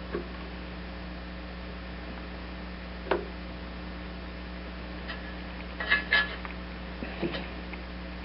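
Metal hand tools clicking and clinking against the mower's fuel-line hose clamp, a few separate clicks with a louder double clink about six seconds in, over a steady electrical hum.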